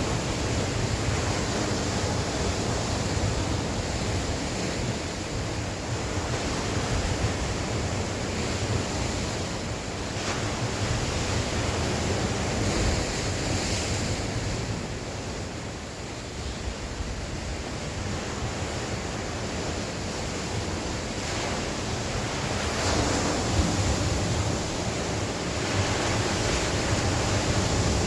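Sea waves breaking and washing on the shore, a continuous surf with swells that rise and fall every few seconds, with wind buffeting the microphone as a low rumble.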